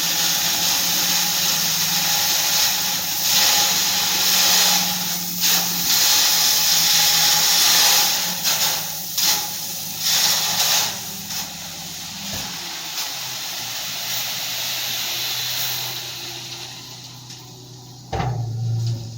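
Dump truck dumping its load, the material pouring off the tipped bed in a loud rush over the truck's running engine. The rush eases after about twelve seconds and fades away, and a short, loud low sound comes near the end.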